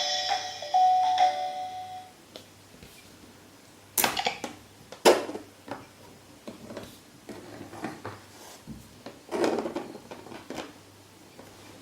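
Electronic chime tones from a VTech Go Go Smart Friends toy playhouse fade out in the first two seconds, followed by scattered plastic knocks and clicks as the toy is handled, the loudest about four, five and nine and a half seconds in.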